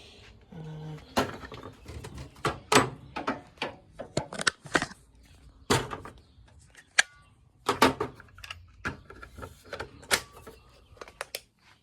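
Irregular knocks, clicks and clatter of hard objects being picked up, moved and set down.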